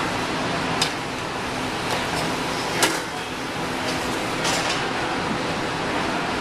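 Steady background hum of room or ventilation noise, with a few sharp clicks and knocks of utensils and ingredients against a bowl as the salad is put together.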